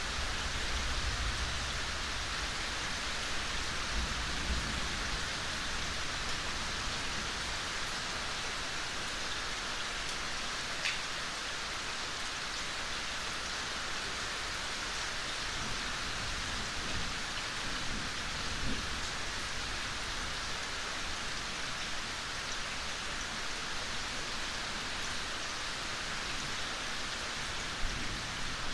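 Steady rain falling, an even dense hiss of many drops at a constant level. A low rumble sits under it during the first few seconds.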